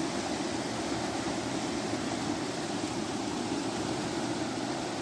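Steady, even rush of flowing water from a rocky brook.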